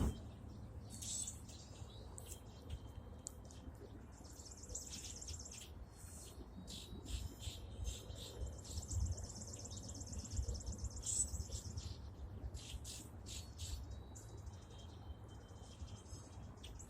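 A songbird singing: repeated short high chirps and long rapid trills, over a faint steady low rumble.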